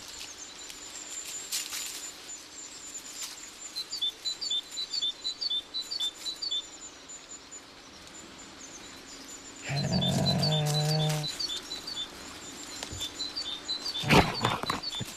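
Small birds chirping over and over in short high notes. About ten seconds in there is a low, steady-pitched call lasting a second or so, and a few sharp knocks near the end make up the loudest moment.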